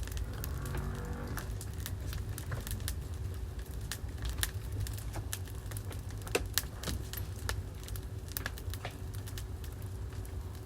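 Wood fire in a fireplace crackling, with irregular sharp pops, a couple louder ones about halfway through, over a steady low rumble.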